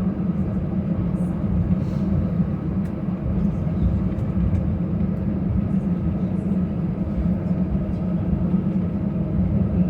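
Steady low rumble of an Airbus A319 heard from inside the passenger cabin, engines and airflow running without change, with a few faint ticks over it.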